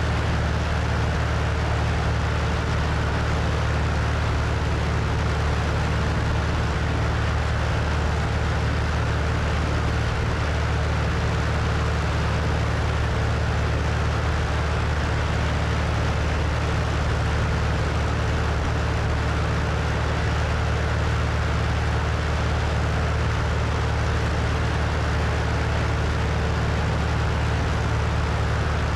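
Cessna 172's engine and propeller running steadily in level flight, a constant low drone with wind rushing over the wing-mounted microphone.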